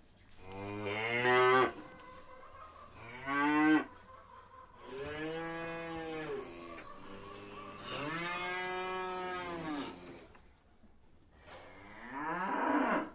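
Cow mooing five times in a row, each moo between about half a second and two seconds long. The two middle calls are the longest, and the first two are the loudest.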